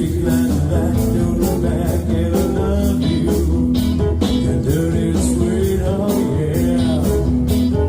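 Live band playing a song: guitar over a steady drum beat, loud and continuous.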